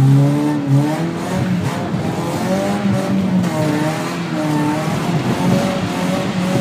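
BMW E36 Compact's engine revving up and down repeatedly, heard from inside the cabin, while the car is driven on ice.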